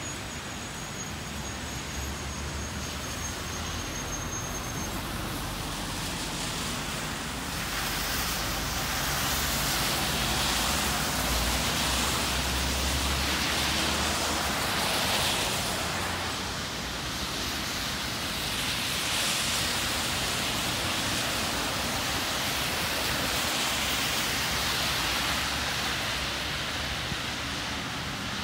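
Heavy rain falling steadily on wet pavement and puddles, mixed with the hiss of car tyres on the flooded road, which swells and fades several times as vehicles pass.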